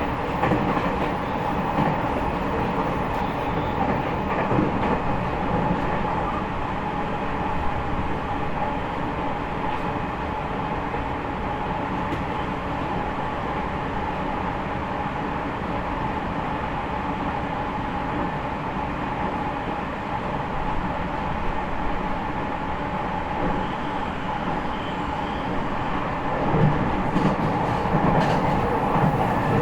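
Onboard running sound of a JR East E501 series electric train, heard inside its motor car: a steady rumble of wheels on rail with an even hum. It gets louder near the end.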